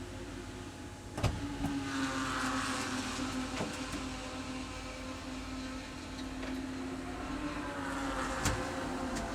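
Race car engine running at a fairly steady pitch, with two sharp knocks, one about a second in and one near the end.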